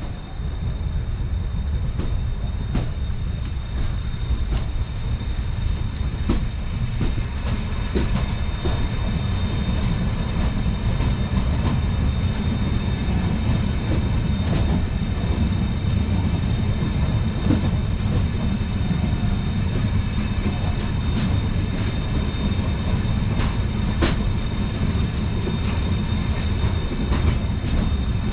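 Indian Railways passenger train running along the track: a steady low rumble broken by irregular sharp clicks and knocks of the wheels over rail joints, with a thin steady high whine above it.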